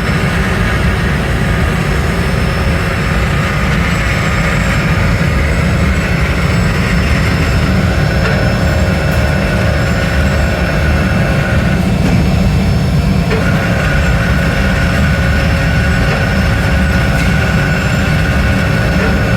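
Factory machinery running steadily: a loud, continuous low rumble with a few faint steady tones above it.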